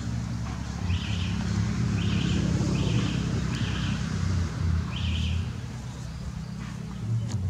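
A bird calling: a short chirping call repeated six times, roughly once a second, fading out after about five seconds, over a steady low hum.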